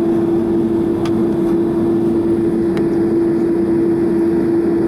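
Boeing 767-300's GE CF6 engines idling, heard from inside the cabin as a steady hum carrying one strong, even tone, while the airliner waits for takeoff clearance.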